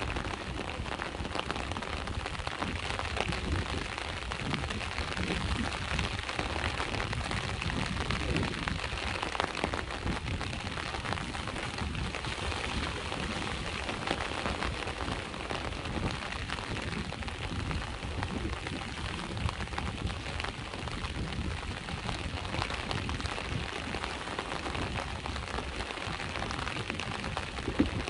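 Steady rain falling, a dense patter of drops over a low rumble of sea waves washing on the shore, with one sharper tap just before the end.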